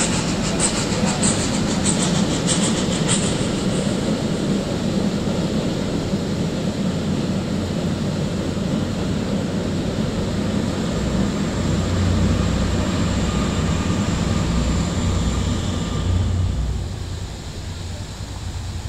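Historic steam-hauled passenger train crossing a steel truss railway bridge: a steady rumble and rattle of the carriages passing, with a run of sharp high ticks a little under twice a second in the first few seconds. It grows deeper for a few seconds past the middle and eases off near the end as the last carriages clear the bridge.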